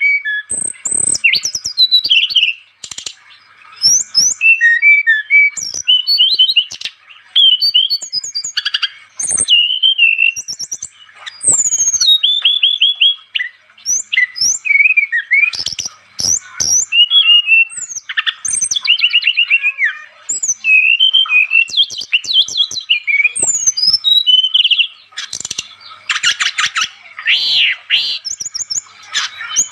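Brown-chested jungle flycatcher (sikatan rimba dada coklat) singing vigorously: varied high-pitched phrases of quick sweeping whistles and rapid repeated notes, each lasting a second or two, separated by short pauses.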